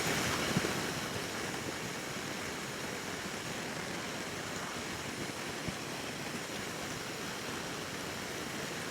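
Steady rush of wind and road noise on a motorcycle at highway speed, with no engine note standing out.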